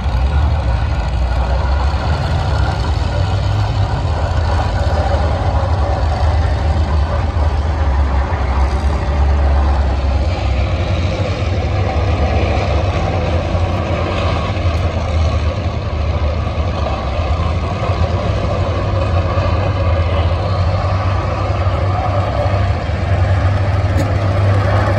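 Several race car engines running on the oval track, a steady low rumble.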